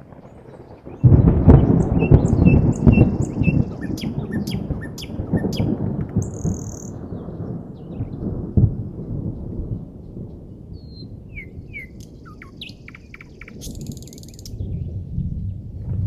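A long roll of thunder breaks loudly about a second in and rumbles away over several seconds, and another rumble builds near the end. Birds chirp and call over it in short bursts.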